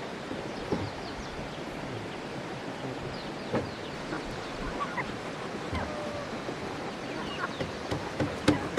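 Steady outdoor hiss with faint bird chirps scattered through it, and a few light knocks near the end.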